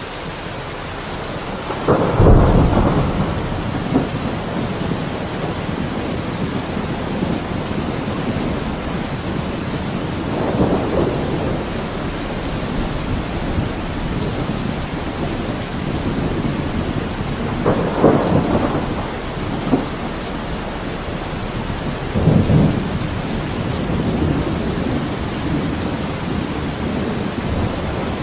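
Steady heavy rain with four rolls of thunder, the loudest a sharp clap a couple of seconds in and the others spread through the rest.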